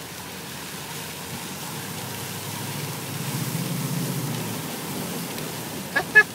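A pickup truck driving through shallow floodwater over the highway, heard from inside the cab: a steady rush of tyre spray and road noise that swells with a heavier low rumble midway. A couple of short, sharp sounds come right at the end.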